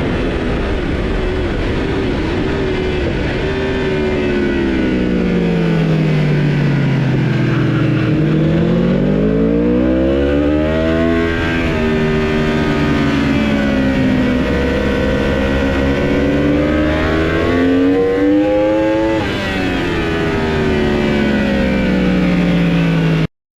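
Superbike engine heard from on board on a racetrack: the revs fall for several seconds as the bike slows for a corner, then climb hard with a couple of upshifts, each a sudden drop in pitch, before dropping again. The sound cuts off abruptly near the end.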